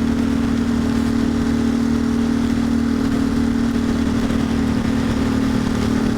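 Ducati Monster's L-twin engine running at steady revs while riding, a constant engine note with no change in pitch.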